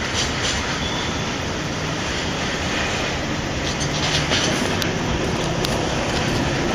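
Freight train rolling past, a steady noise of wagon wheels running on the rails, with a few faint short clicks about five seconds in.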